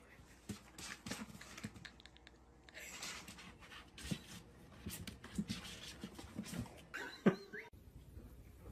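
A pet animal panting, with scattered small knocks and rustles, and a short squeaky call about seven seconds in.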